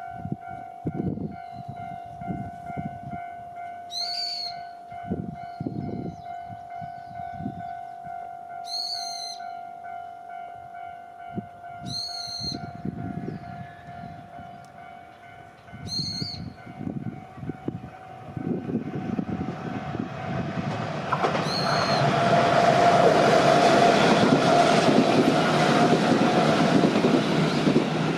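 Level crossing alarm ringing steadily while an electric commuter train approaches, then the train passing close by, its running noise swelling in the last third to the loudest part. A few short high chirps, bird calls, sound earlier on.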